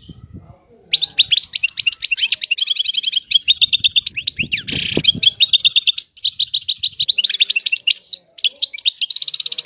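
European goldfinch singing a long, fast run of twittering trills and rapid chirps, starting about a second in, with a short harsh burst about halfway through.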